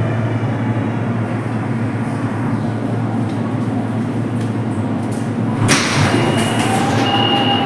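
Interior of a CRRC Sifang Type A metro car: a steady hum from the train's equipment. About six seconds in, a burst of noise comes in together with a repeated high beeping, the door-closing warning of the car's sliding doors.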